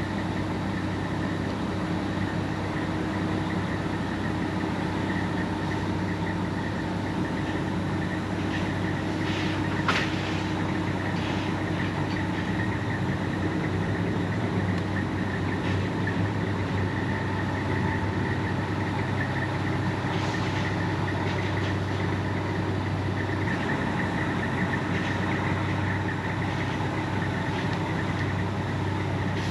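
Semi truck's diesel engine running steadily, with one sharp click about ten seconds in.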